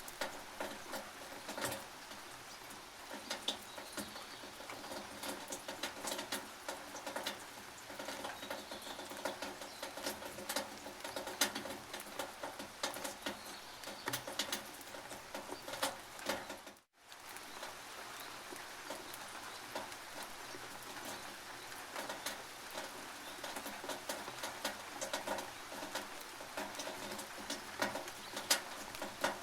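Rain on a tin roof: a steady hiss of rain with many irregular sharp drips and taps landing on the metal. The sound drops out completely for a moment about halfway through.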